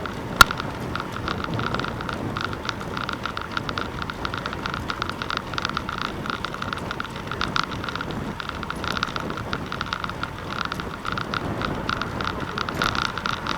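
Wind and road noise from riding a bicycle, with a fast crackling rattle and a single sharp click about half a second in.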